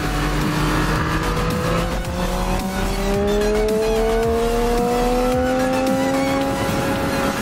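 Triumph Street Triple's 675 cc inline three-cylinder engine with a Remus aftermarket silencer, running while riding. Its note holds steady, then rises smoothly from about two seconds in as the bike accelerates in gear.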